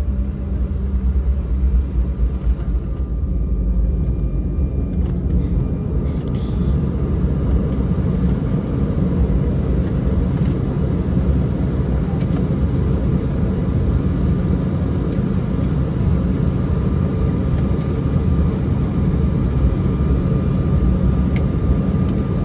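Cabin noise of an Embraer E190 taxiing after landing: a steady low rumble from the idling engines and rolling wheels, with a faint steady whine above it.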